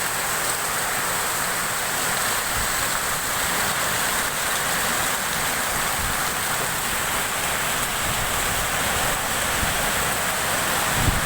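Heavy rainstorm with strong wind: a steady rushing downpour, with wind gusts buffeting the microphone near the end.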